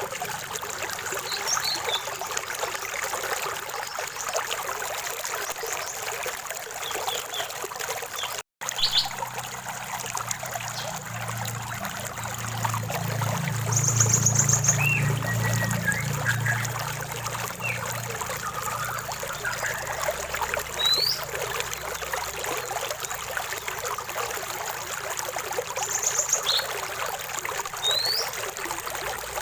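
Steady trickling and splashing of a small stream, with scattered short bird chirps and whistles over it. A low rumble swells and fades around the middle, and the sound cuts out for an instant about a third of the way in.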